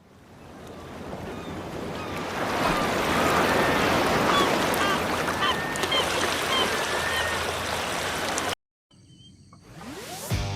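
A steady rushing noise fades in, with short bird calls scattered over it. About eight and a half seconds in it cuts off abruptly, and music begins to build near the end.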